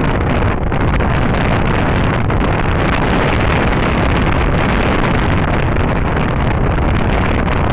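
Loud, steady wind rushing over the microphone, a continuous rumbling roar with no pitched engine note.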